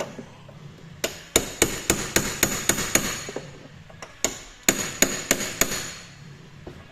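Hand hammer striking in two runs of quick ringing blows, about four a second, with a short pause between the runs.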